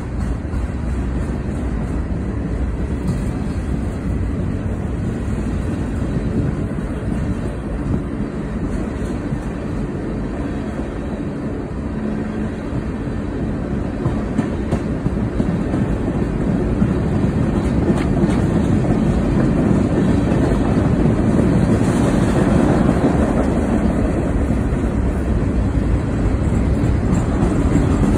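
Freight train of boxcars and tank cars rolling past, its wheels running steadily on the rails. It grows louder about halfway through.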